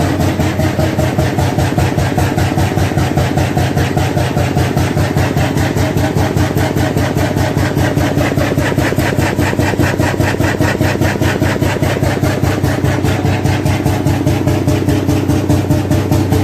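Krimo 35 HP single-cylinder hot bulb oil engine running steadily, its firing beat even and regular throughout.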